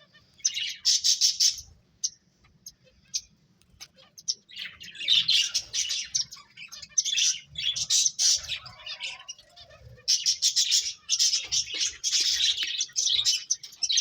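Pet finches chirping in quick, high bursts: a short burst about half a second in, a pause of a couple of seconds, then near-continuous chirping from about four and a half seconds in.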